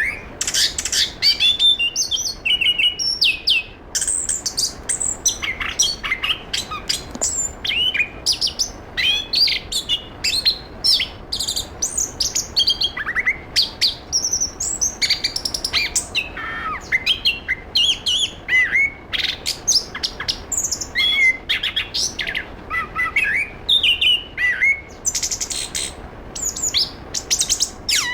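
Chestnut-capped thrush (anis kembang, Zoothera interpres) singing a fast, unbroken song of short, varied chirps and quick whistled sweeps.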